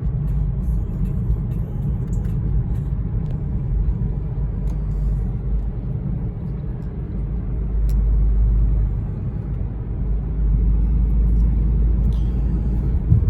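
Low, steady rumble of a BMW 4 Series on the move, heard from inside the cabin: engine and road noise. It swells a little about eight seconds in and again near the end.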